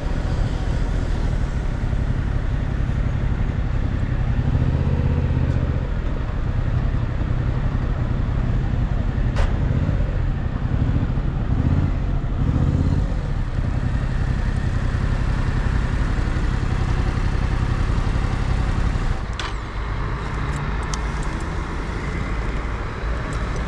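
Yamaha MT-07's parallel-twin engine running under way, with wind rush over the microphone. The engine note swells a few times and drops quieter about three-quarters of the way through. Two sharp clicks stand out, one near the middle and one just before the level drops.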